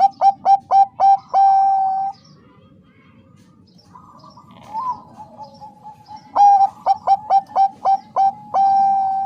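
Zebra dove (Bangkok-bred perkutut) singing its cooing song twice: each phrase is a quick run of short clipped coos ending in one long held coo. The first phrase ends about two seconds in, softer coos follow a few seconds later, and the second phrase starts about six and a half seconds in.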